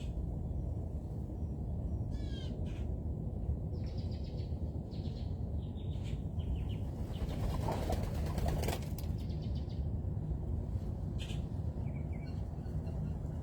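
Birds at a feeding spot giving short scattered calls, with a burst of wing flapping about eight seconds in, over a steady low background rumble.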